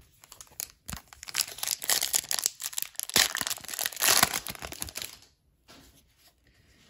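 Foil wrapper of a hockey card pack being torn open and crinkled in the hands, a dense crackling that swells twice and stops about five seconds in.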